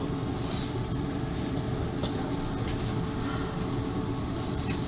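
Inside a moving electric suburban train: a steady rumble of wheels on the rails under a constant motor hum, with a few faint clicks.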